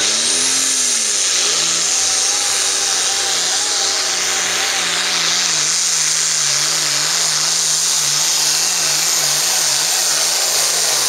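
Pro farm pulling tractor's diesel engine running loudly, its pitch wavering up and down about once a second and dropping near the end, over heavy hiss and a high steady whine.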